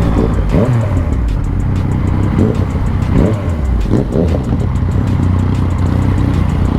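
Motorcycle engine running under way, with its pitch briefly rising and falling several times as the throttle changes.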